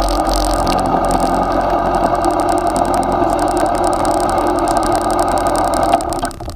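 Yamaha XJ6's 600 cc inline-four engine idling steadily close to the mic, then shutting off about six seconds in.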